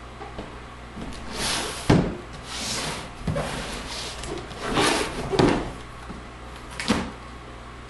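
Cardboard packaging scraping and rubbing as a boxed RC truck is pulled and wedged out of its box, with a few knocks at about two seconds, three seconds and seven seconds in.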